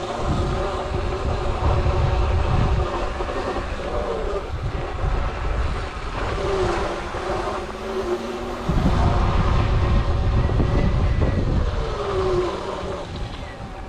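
Electric dirt bike motors whining as the bikes ride, the pitch sliding up and down with throttle and speed. Heavy wind buffeting on the microphone swells in gusts, loudest near the start and again from about nine seconds in.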